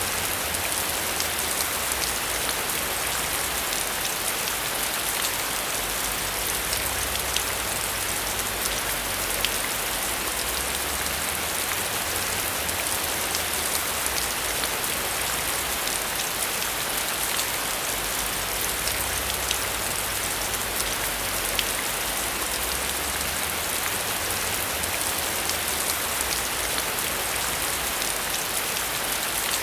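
Steady heavy rain, with many single drops ticking sharply through the hiss and a low rumble underneath that swells and fades.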